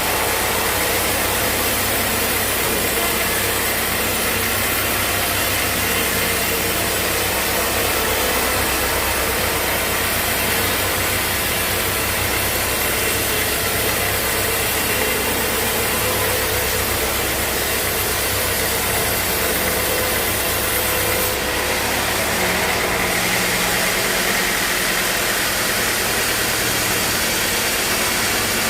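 Sawmill machinery running steadily: a motor hum under a loud, even noise. About three-quarters of the way through, the low hum drops away and the noise shifts higher.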